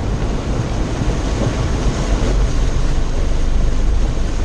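Steady rumble and rushing noise inside a vehicle's cabin as it drives through floodwater over the road, building slightly.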